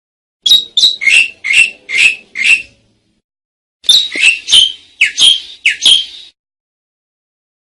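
Asian pied starling (jalak suren) calling: two quick runs of about six short falling notes each, separated by a pause of about a second.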